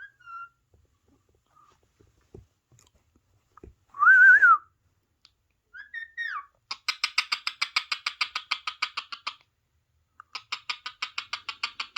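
Parrot calls: a short wavering whistle about four seconds in and another near six seconds. These are followed by two long runs of rapid repeated notes, about eight a second.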